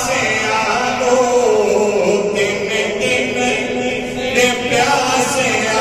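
Male voices chanting a slow, unaccompanied devotional melody in long held notes that slowly glide up and down, as a Punjabi salam begins.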